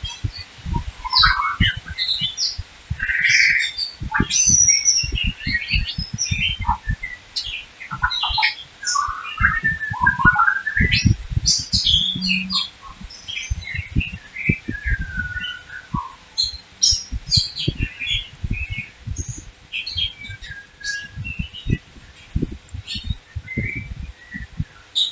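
Small birds chirping and twittering in many short, quick calls, some sweeping in pitch, with frequent short low thumps underneath.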